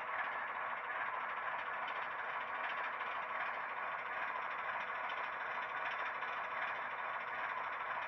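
Sound decoder's simulated GE ES44AC diesel engine idling steadily, played through an HO-scale model locomotive's small speaker, so it sounds thin with little bass.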